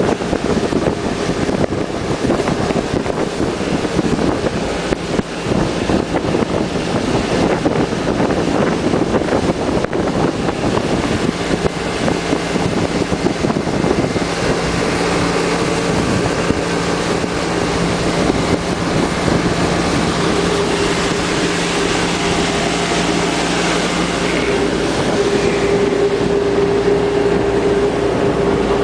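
Motorboat engine running steadily under way, with wind buffeting the microphone. A steady engine hum runs throughout, and a higher engine tone grows stronger in the last third.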